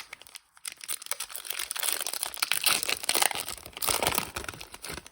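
Foil Pokémon booster pack wrapper crinkling in the hands, a dense crackle that builds about a second in and eases off near the end.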